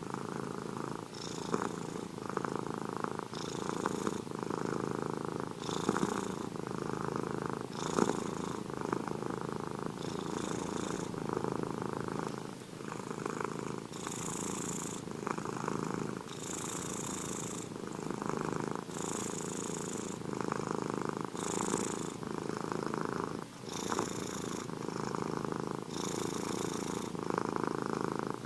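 Domestic cat purring steadily and close up, the purr swelling and easing with each breath about every two seconds.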